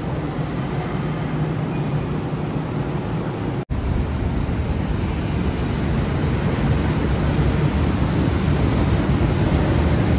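Kintetsu electric trains running along a station platform: the rumble of wheels on rail and running gear. A sharp gap a little over three seconds in, then a local train pulling into the platform, its running noise growing slightly louder.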